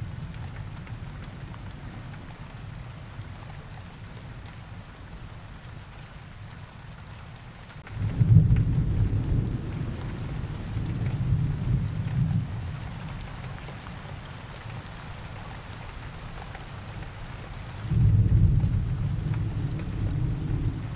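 Steady rain, with two low rolls of thunder: one starting about eight seconds in and rumbling for several seconds, another starting near the end.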